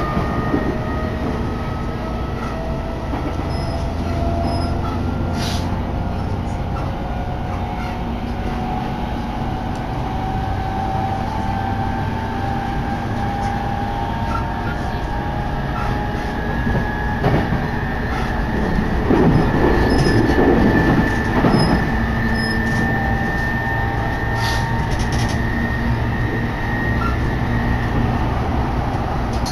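Chuo Line commuter train running between stations, heard from inside the carriage: a steady rumble of wheels on rail with faint whining tones that slowly shift in pitch. It swells into a louder rushing stretch about two-thirds of the way through.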